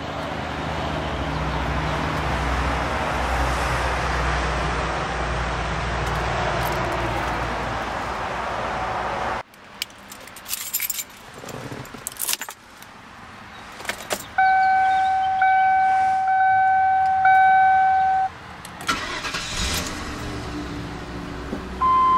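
The 1995 Lincoln Mark VIII's 4.6 L twin-cam 32-valve V8 idles steadily, then breaks off suddenly about nine seconds in. Keys jingle and the car's steady warning chime sounds for about four seconds, then the V8 cranks and catches near the end and settles into an idle, with a short beep at the very end.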